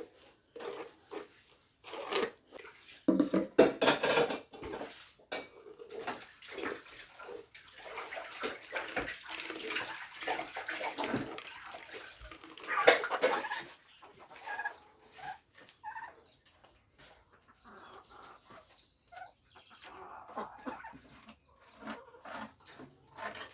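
Kitchen work sounds: scattered knocks and clinks of bowls and utensils, with a longer stretch of water sounds in the middle, and chickens clucking.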